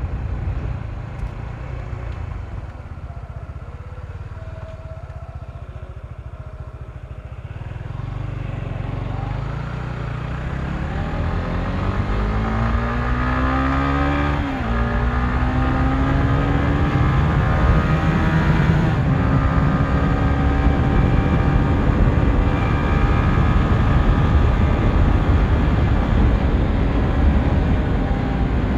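Honda CBR150R's single-cylinder engine accelerating flat out on a top-speed run. Its revs climb steadily, drop sharply at a gear change about halfway through, then climb slowly and hold high near top speed. Wind rushes over the microphone throughout.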